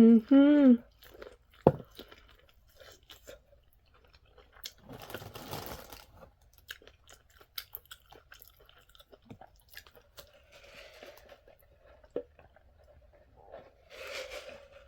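Crunchy chewing of fried food close to the microphone: scattered small crunches and mouth clicks, with a longer crunching stretch about five seconds in. A hummed note trails off at the very start.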